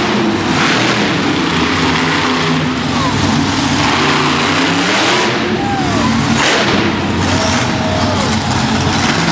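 Monster truck engine running loud, revving up and falling back several times with surges of exhaust noise.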